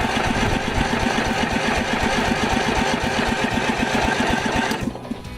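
Small tractor's gasoline engine running with a fast, even putter, then stopping abruptly near the end.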